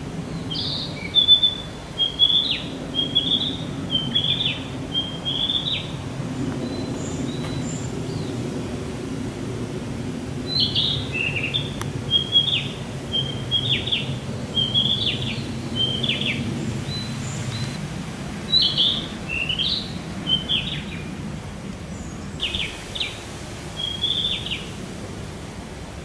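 A wild songbird singing series of short, high chirping phrases in bursts, with a pause of a few seconds partway through, over a steady low background rumble.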